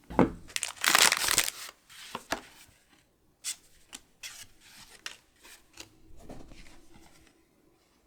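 Foil Pokémon booster pack wrapper crinkling and tearing open in loud bursts over the first second and a half, followed by lighter rustles and short taps that die away.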